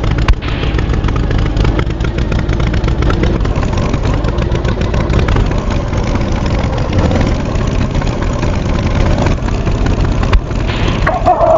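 Tractor engine sound effect running steadily with a low rumble. There is a short click just after the start and a brief sliding call near the end.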